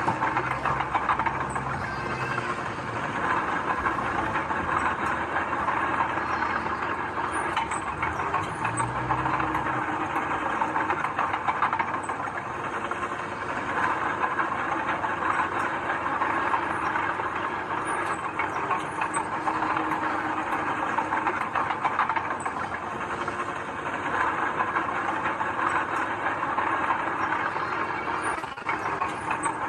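Heavy diesel construction machinery running steadily, with a continuous metallic clatter and many small clicks.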